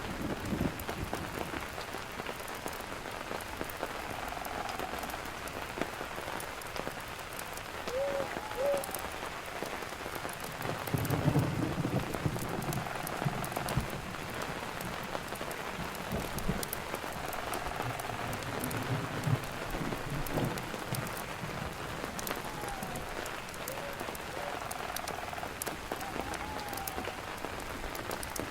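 Rain falling steadily on a campfire, with fine crackling and patter throughout. A low rumble swells twice, and faint short whistle-like notes come and go.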